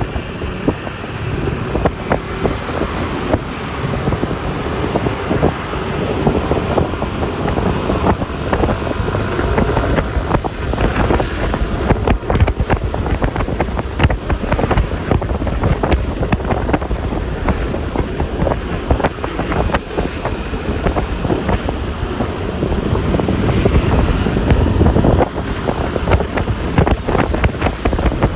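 Wind buffeting the microphone of a riding scooter, with road and traffic noise and the Yamaha Lexi LX 155 scooter's engine underneath.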